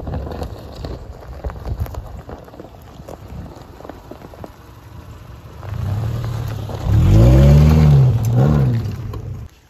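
Subaru Forester's flat-four engine pulling up a loose gravel-and-dirt hill. Its tyres crackle over the rock at first. The engine then gets louder and revs up and down twice as the wheels spin and throw dirt, and the sound cuts off suddenly just before the end.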